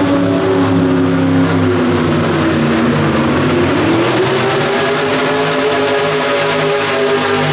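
Pro Street 2WD pulling truck's engine running hard at high revs, its pitch sagging briefly and then climbing about four seconds in before holding steady.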